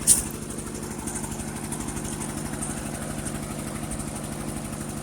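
Ford 851 tractor's four-cylinder engine running steadily with an even firing beat, with one sharp clank just after the start.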